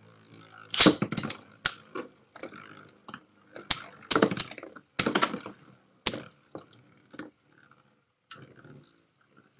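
Metal Beyblade spinning tops, Lightning L-Drago and Storm Pegasus, clashing: a series of sharp, irregular clacks, loudest and most frequent in the first half, then sparser.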